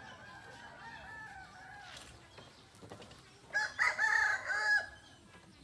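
Rooster crowing: a fainter crow in the first two seconds, then a loud crow about three and a half seconds in, lasting over a second.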